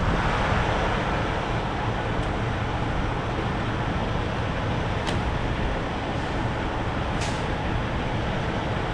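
Steady vehicle rumble, such as trucks idling and passing traffic. A few faint clicks come through it, and there is a short hiss about seven seconds in.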